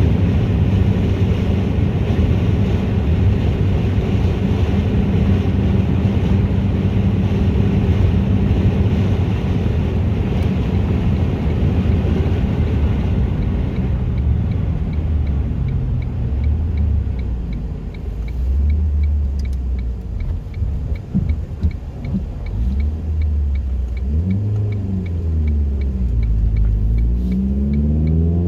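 2004 Ford Focus 2.0 Zetec four-cylinder breathing through a race header, 2.5-inch downpipe and straight-through exhaust. It runs at steady revs for about half the time, then the revs drop and rise and fall, climbing again near the end. A faint regular ticking, about two a second, runs under it in the second half.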